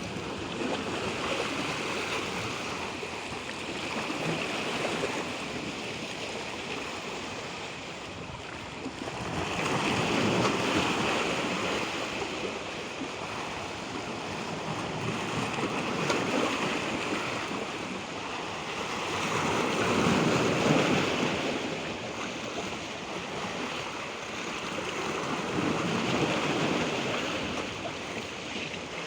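Ocean waves breaking and washing in, the noise swelling and ebbing about every five to six seconds.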